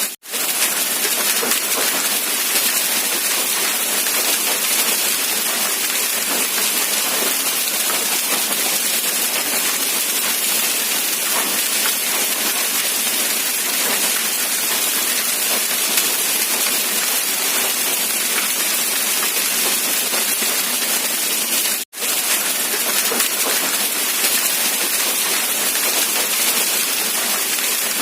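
Steady rainfall, an even hiss of falling rain. The sound drops out for a split second twice, once at the very start and once about two-thirds of the way through.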